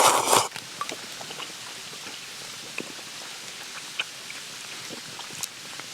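Wood campfire crackling steadily with scattered small pops and a couple of sharper snaps, after a short loud rush of noise at the very start.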